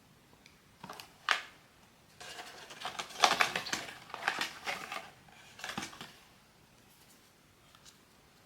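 Hands opening and handling blind-box toy packaging: two sharp clicks, then about three seconds of crinkling and rustling, and another short rustle near six seconds.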